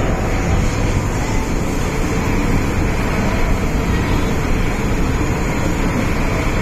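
Steady running noise of an MTR M-Train electric multiple unit under way, a constant rumble of wheels on rails and train noise heard from inside the carriage.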